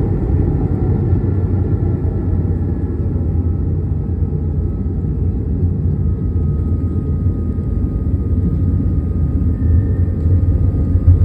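Airbus A220 heard from inside the cabin: the Pratt & Whitney geared turbofans and airflow make a steady low rumble with faint whining tones above it, swelling slightly near the end.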